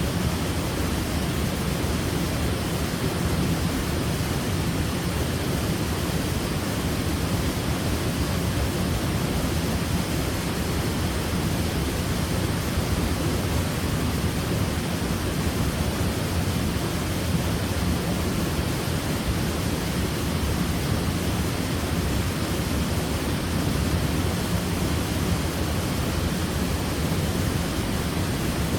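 Waterfall: water falling and splashing in a steady, unbroken rush, fullest in the low range.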